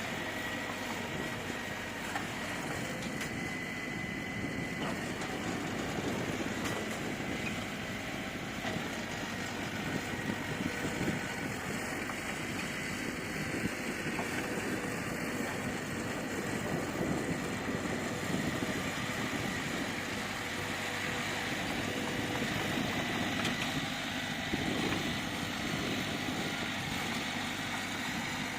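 Engine of heavy earthmoving machinery running steadily, with a faint high steady whine over the first few seconds.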